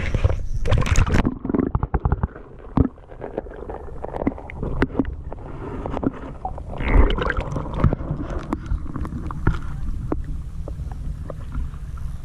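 Wind and water noise aboard a small fishing boat: a steady low rumble with scattered light knocks and clicks.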